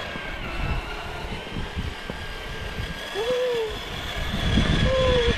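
1/10-scale Traxxas TRX-4 RC crawler driving, its electric motor giving a steady high whine over uneven low rumbling and knocks from the drivetrain and tyres on rough ground. It gets louder near the end.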